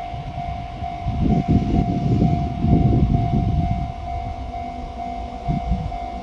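A Japanese level-crossing alarm rings with an evenly repeating tone. Under it runs a loud, uneven low rumble from a freight train hauled by two EF64 electric locomotives.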